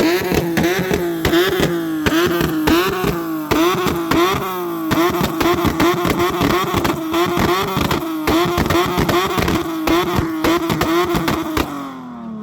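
Car engine held at high revs for several seconds, its pitch bobbing slightly, with a rapid crackle over it. The revs then drop away near the end.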